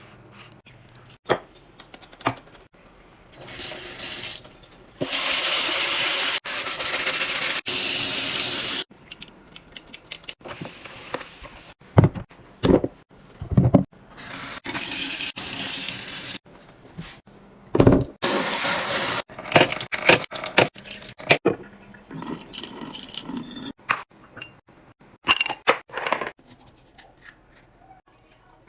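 Water running or pouring in several stretches, the longest a few seconds long, with clicks and knocks of containers being handled between them.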